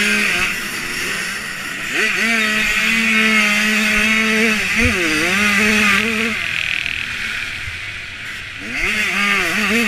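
Dirt bike engine under hard throttle, its pitch holding high, falling off and climbing again as the rider shifts and rolls on and off the gas, with a sharp dip about five seconds in. Heard from the rider's helmet camera.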